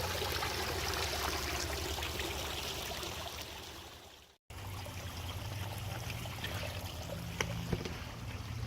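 Water of a small brook running over little waterfalls, a steady rush that fades out and cuts off about four seconds in, then resumes, with a couple of sharp clicks near the end.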